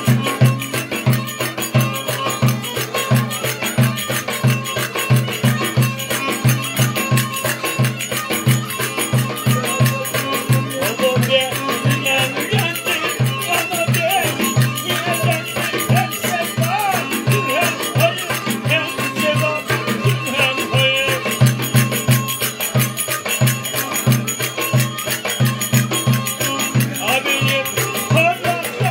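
Turkish folk dance music for a village wedding: a fast, steady drum beat under a wavering melody line that comes forward about a third of the way in.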